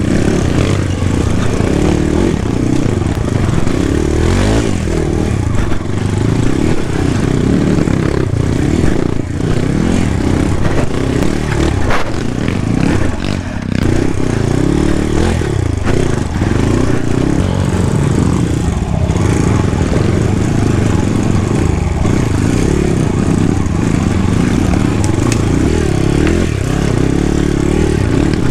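Kawasaki KLX 140G dirt bike's single-cylinder four-stroke engine running on a trail ride, its revs rising and falling with the throttle. A few sharp knocks and clatters sound over it.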